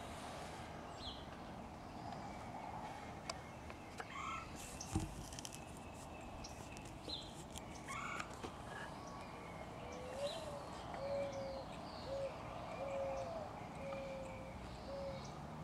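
Birds chirping in the background over a steady low hum, with a run of short, evenly spaced lower call notes in the second half. A single knock comes about five seconds in.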